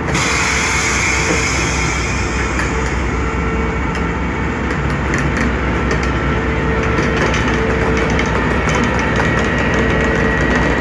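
Long passenger train's coaches rolling slowly out past the platform: a steady rumble of steel wheels on the rails, with rail clicks coming more often later on.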